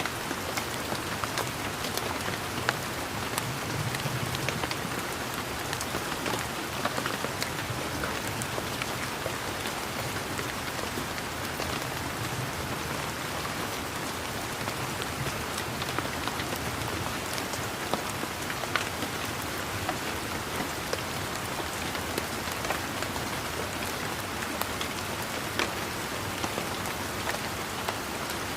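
Steady rain falling on leaves and garden surfaces, a continuous patter with many distinct drops ticking close by.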